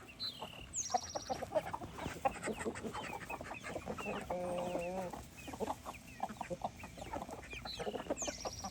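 Chickens clucking while they eat, many short calls overlapping, with one longer wavering call about halfway through and two brief high chirps near the start and near the end.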